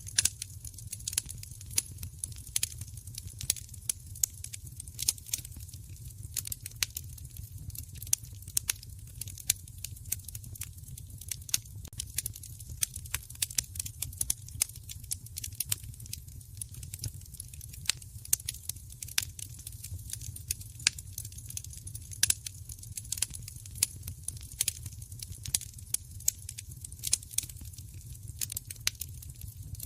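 Wood fire crackling, with a dense, irregular scatter of sharp pops and snaps over a low, steady rumble of the burning fire.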